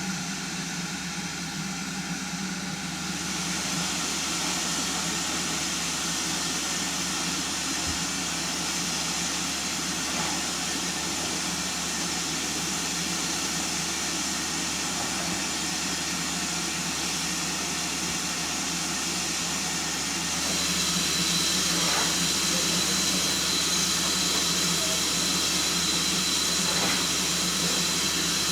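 Steam hissing steadily from the Ivatt Class 2 tank engine No. 41313, with a constant low hum underneath. The hiss grows louder about three seconds in and again about twenty seconds in.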